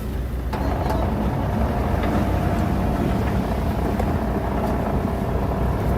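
Diesel engine of heavy earthmoving machinery running steadily, with a steady higher whine joining about half a second in.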